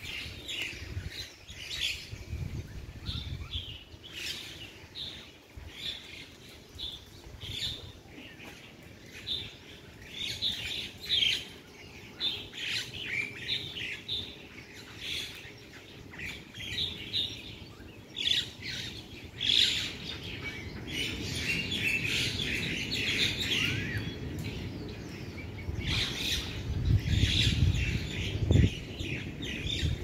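Birds chirping in the trees: a steady scatter of short, high chirps, busiest through the middle. A low rumble joins near the end.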